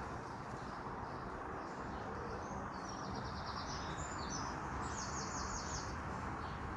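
A small bird singing two quick high trilled phrases, about three and five seconds in, over a steady background noise.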